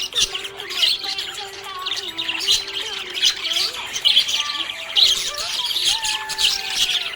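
Budgie chirping and chattering in a rapid, nonstop stream of short high chirps, with a faint melodic tone underneath.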